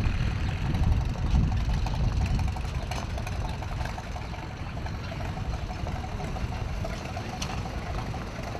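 Tractor engines idling and running, a low rumble that grows fainter over the first few seconds.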